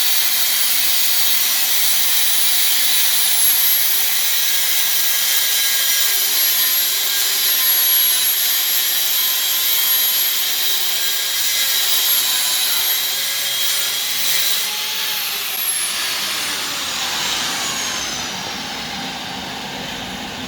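A high-speed cut-off grinder whines steadily as it cuts through a rusty steel truck frame. About 15 seconds in, it is let off and its whine falls away as the disc spins down.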